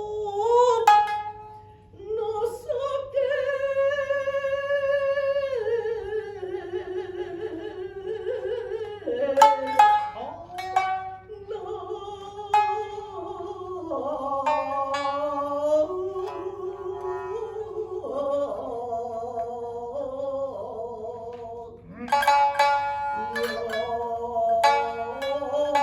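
Shinnai-bushi jōruri chanting: long, wavering melismatic vowel lines held over sparse shamisen plucks. About 22 seconds in, the shamisen break into a quick run of plucked notes.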